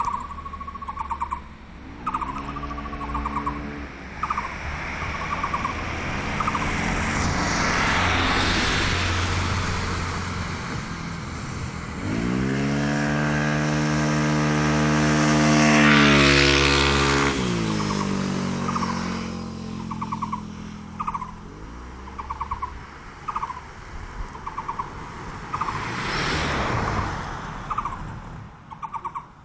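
A bird repeats a short, wavering call about once a second while several motor vehicles drive past. The loudest vehicle comes about halfway through, its engine pitch rising as it nears. The calls are masked while it passes and carry on near the end.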